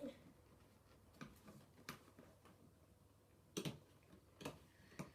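Faint, scattered clicks and taps of hands handling toy packaging, with a couple of louder knocks about three and a half seconds in.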